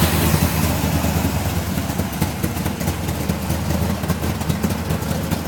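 377 cubic-inch small-block V8 with a .510 roller camshaft and Hooker headers, idling steadily.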